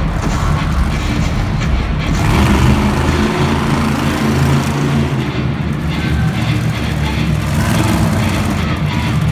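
Monster truck's supercharged V8 engine running loudly, its pitch shifting up and down with the throttle.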